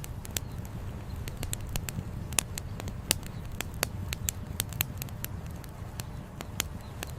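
Wood campfire crackling, with irregular sharp pops and snaps of varying loudness, a few each second, over a steady low rumble.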